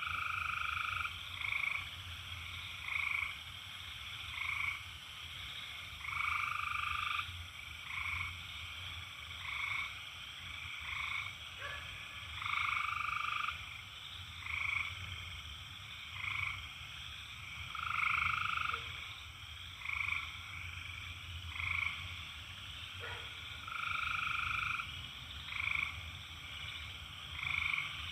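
Frogs calling again and again, a note every second or two, some short and some held for about a second, over a steady high drone of cicadas.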